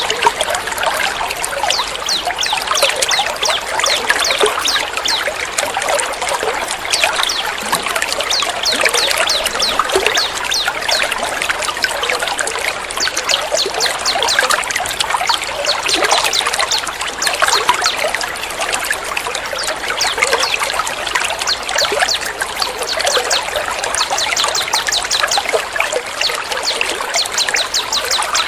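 Water-therapy track of continuously trickling, splashing water: a dense, unbroken patter of small drips and splashes.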